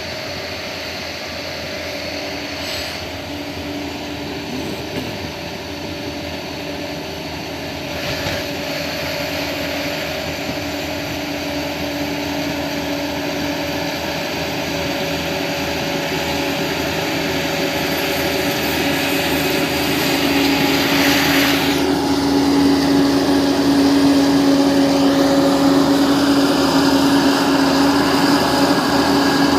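Bulldozer's diesel engine running steadily as it works, growing louder about two-thirds of the way through.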